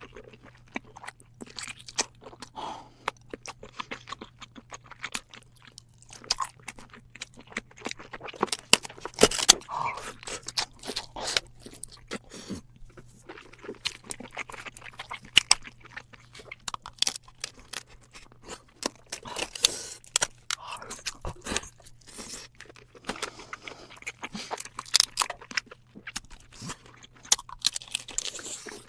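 Giant crab in spicy sauce being eaten close to the microphone: crab shell cracking and crunching between bites and chewing, in many quick irregular clicks.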